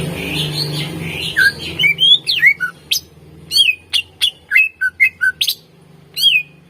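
Greater green leafbird (cucak ijo) singing. A quick warbling run gives way about two seconds in to a rapid string of loud, sharp whistled notes, most sweeping downward, ending in one longer note.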